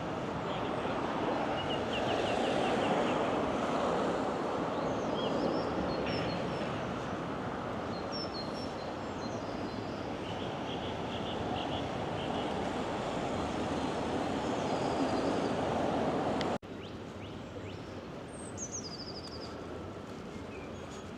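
Small birds chirping over a steady rushing outdoor background noise. About three-quarters of the way through the noise drops off abruptly, leaving a quieter background and a short falling bird call.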